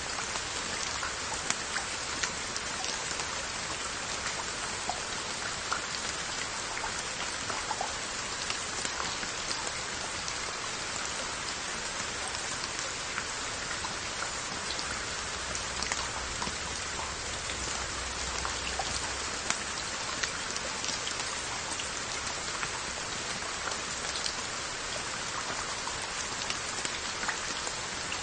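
Steady rain falling on Korean earthenware sauce jars (onggi) and their lids, an even hiss dotted with many separate drop taps.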